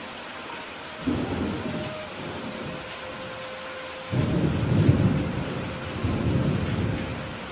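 Steady rain with thunder: a low rumble breaks in about a second in and fades, then a louder, longer rumble starts about four seconds in and dies away near the end.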